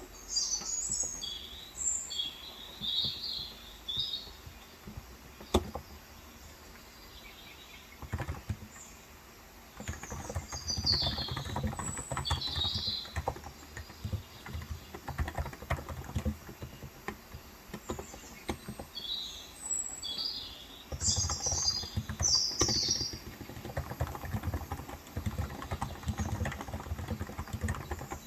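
Small birds chirping in short bursts of high notes, over a Cox Endeavor electro-capacitive keyboard with 35 g switches. The keyboard is quiet at first, then typed on rapidly from about a third of the way in.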